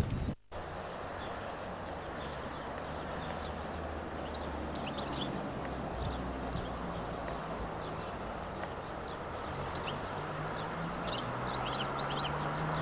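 Birds chirping in many short, high calls over a steady background noise, with a low hum that rises slightly in pitch near the end.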